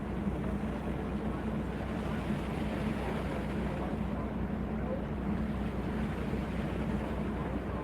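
A boat's engine drones steadily under wind and sea noise.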